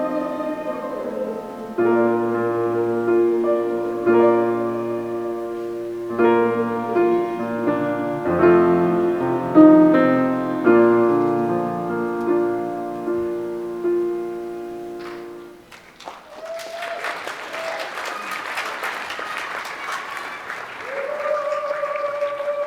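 Piano playing a slow run of chords at the close of a piece, the last chord ringing away to nothing. Then an audience applauds, with a few voices cheering over it.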